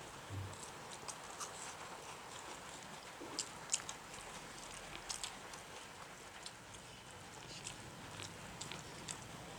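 Close-up eating sounds of chicken biryani: chewing and small mouth clicks at irregular moments, loudest about four seconds in, over a steady hiss.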